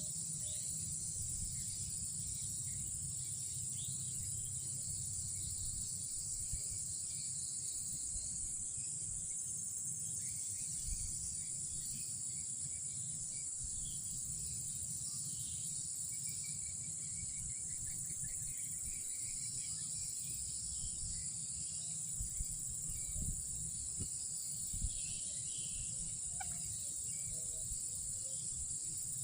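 A steady, high-pitched chorus of night insects droning without a break, over a low rumble. About sixteen seconds in, a faint trill of rapid repeated notes is heard for a couple of seconds.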